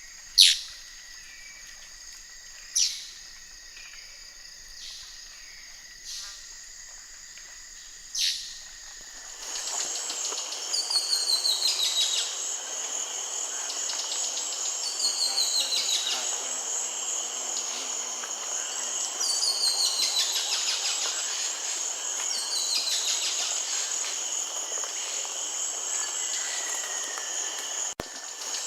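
Wild birdsong over a steady insect chorus. First come three loud, sharp bird calls a few seconds apart. About nine seconds in, the sound switches abruptly to a dense insect drone with a bird repeating short falling phrases.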